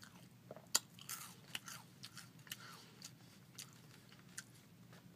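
A person biting and chewing crackers: irregular crisp crunches, the loudest about a second in, thinning out towards the end.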